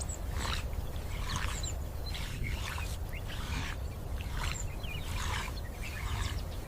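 Birds calling with short, repeated chirps about once or twice a second, over a steady low rumble.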